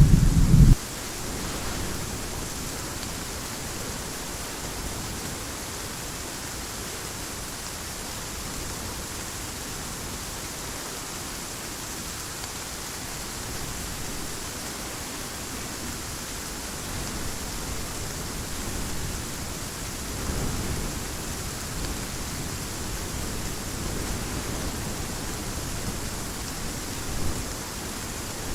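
Heavy rain falling in a steady hiss. The loud low rumble of a thunder clap cuts off abruptly just under a second in, and the rain continues alone.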